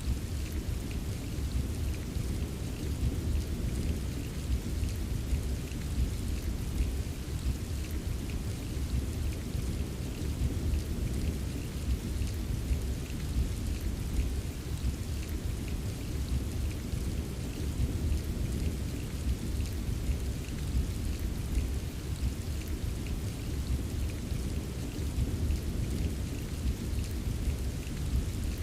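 Steady rain pattering with fine drop ticks over a continuous low rumble of gentle thunder, with no single sharp clap.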